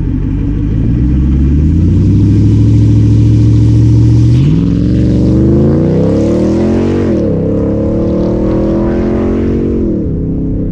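Jeep Grand Cherokee SRT8's 6.1-litre HEMI V8 accelerating hard through a Borla exhaust with the mid-muffler deleted. The note holds steady for about four seconds, then climbs in pitch, drops at a gear change about seven seconds in, and climbs again before dropping at another shift near the end.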